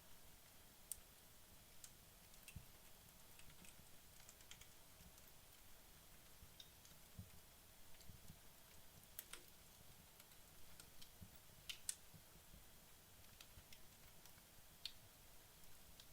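Wood fire in a fireplace burning low, late in its burn-down, with sparse, irregular small crackles and pops over a faint hiss; the loudest pops come about nine and twelve seconds in.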